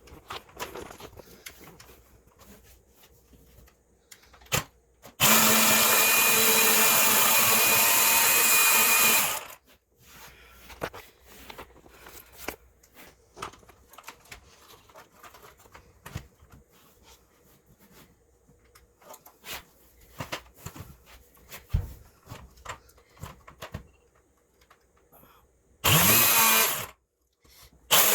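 Chainsaw starting up and running steadily for about four seconds before stopping, then a short burst near the end that rises in pitch as it spins up. Scattered light knocks and taps come between the runs.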